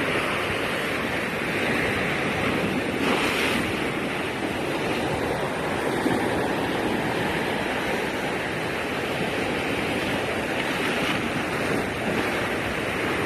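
Sea surf washing steadily against the shore, with some wind on the microphone.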